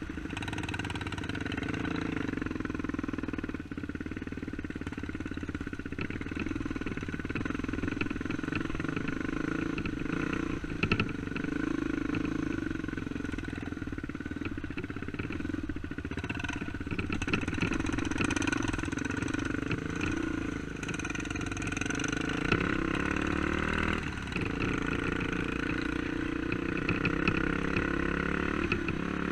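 Dirt bike engine running steadily, its pitch shifting now and then as the throttle changes, with a few sharp knocks.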